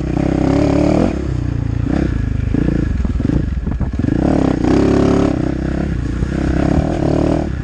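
The KTM 450 Rally's single-cylinder four-stroke engine running hard under the rider on a dirt track. The revs rise and fall as the throttle opens and closes, and drop off briefly around the middle.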